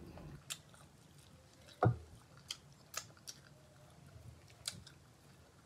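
Close-up eating sounds of a person eating mutton curry by hand: quiet chewing broken by a handful of short wet mouth clicks and smacks, the loudest just under two seconds in.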